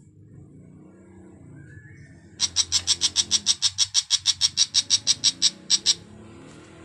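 A bird giving a fast run of harsh, evenly spaced notes, about eight a second, for some three and a half seconds starting a couple of seconds in, then stopping abruptly.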